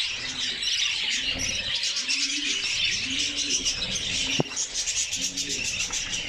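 Budgerigars chattering and warbling, with a low cooing call repeating about once a second underneath.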